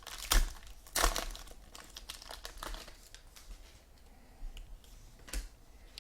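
Foil wrapper of a trading-card pack crinkling and tearing as it is handled and ripped open, in a few short sharp bursts, loudest about a second in.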